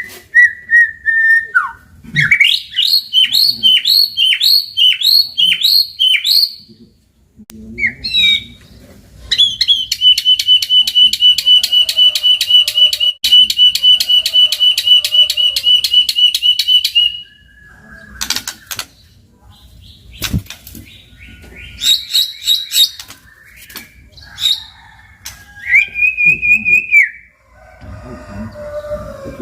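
White-rumped shama singing loud, varied whistled phrases: a run of short falling notes, then a long rapid trill of about seven seconds, then scattered calls and a held clear whistle near the end.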